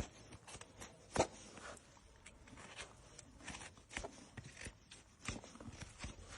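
Hoof trimming: a series of irregular sharp clicks and scrapes of trimming tools working on an overgrown horse hoof, the loudest about a second in.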